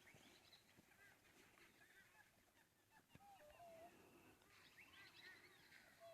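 Faint birdsong: several birds chirping and whistling together, with a lower wavering whistled call about three and a half seconds in and again near the end.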